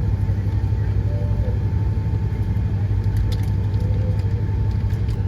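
Steady low rumble of a Boeing 777-300 heard from inside the passenger cabin, its engines running at idle on the ground, with a thin steady whine above it. A few faint clicks come about three seconds in.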